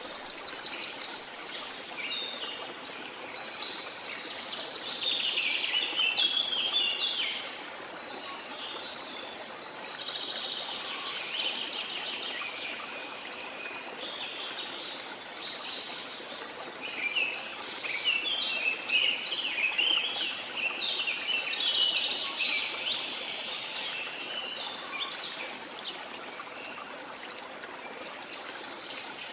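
Several birds singing and chirping over a steady rush of falling water, the birdsong busiest early on and again past the middle.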